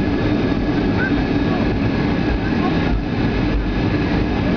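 Boeing 757-200 cabin noise heard from inside the aircraft: a steady loud rumble of engines and airframe, with a low hum and a faint higher tone held throughout.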